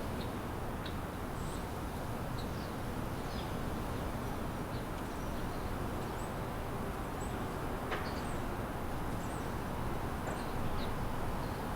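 Small birds giving short, scattered chirps now and then over a steady low rumble of distant city traffic.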